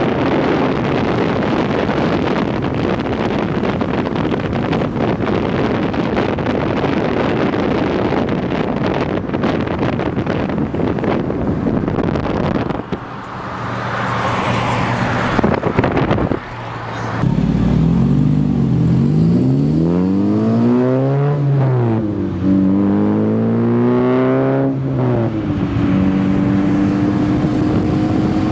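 Loud rushing noise for the first half. Then a car engine revs up and down several times, its pitch rising and falling, before settling into a steady drone near the end.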